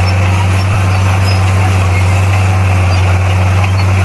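Bulldozer's diesel engine running at a steady, loud, low drone, with no change in pitch or level.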